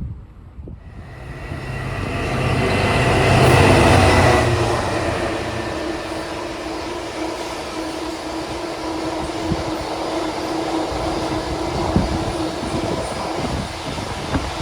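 Diesel locomotive approaching and passing, its engine loudest about four seconds in, followed by the steady rumble of the train rolling by with occasional wheel clicks.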